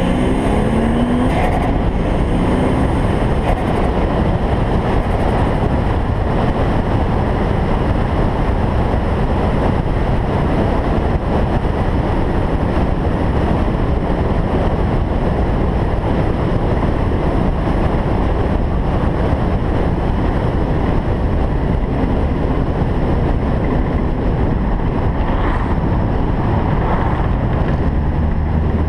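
Single-turbo Toyota Supra driving at speed. Its engine revs climb in the first few seconds, then give way to a steady loud rush of road and wind noise over the engine's drone.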